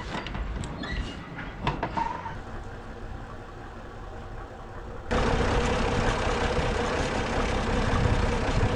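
A few scattered knocks and clicks, then from about five seconds in an engine running steadily with a constant hum, starting suddenly.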